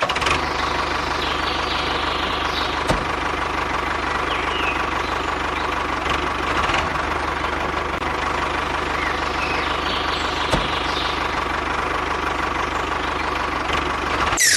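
A small motor running steadily: a dense rattling drone with a constant whine, starting and stopping abruptly.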